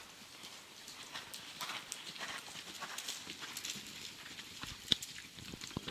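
Horse's hooves striking the ground in an irregular run of soft knocks, with one sharper click about five seconds in.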